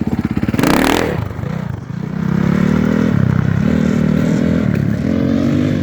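Dirt bike engine pulling away, revving up in pitch and easing off twice as it goes up through the gears. A brief loud rush of noise comes just before it.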